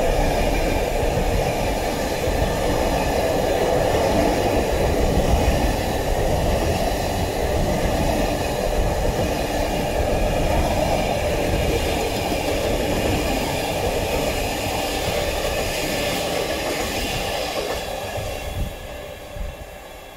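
Container wagons of a long intermodal freight train rolling past close by, a steady rumble of wheels on rail that fades over the last few seconds as the end of the train draws away.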